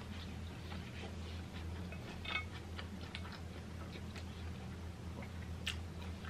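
Close-miked chewing with soft, scattered mouth clicks and a sharper click near the end, over a steady low hum.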